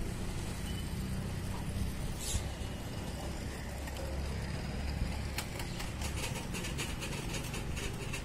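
Loaded ballast hopper wagons rolling slowly along the track with a steady low rumble. A brief high squeak comes about two seconds in, and from about five seconds in rapid metallic clicks and rattles set in.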